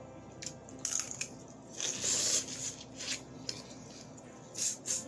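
Close-miked eating sounds: mouth smacking and chewing on crab meat, with scattered wet clicks and a longer wet hiss about two seconds in.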